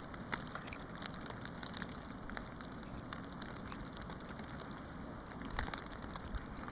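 Falling snow ticking and pattering irregularly on surfaces over a steady hiss.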